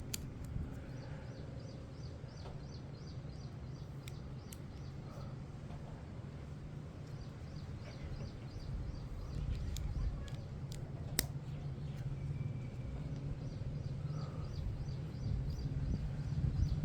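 A bird chirping in three quick runs of high notes, over a low steady rumble. A few sharp clicks of plastic LEGO bricks being handled come through, the sharpest about eleven seconds in.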